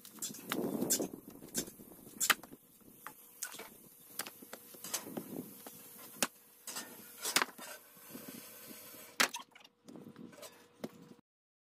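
Irregular sharp wooden knocks and clacks, like pieces of firewood being handled and knocked together, with some rustling between them. The sound cuts out briefly near the end.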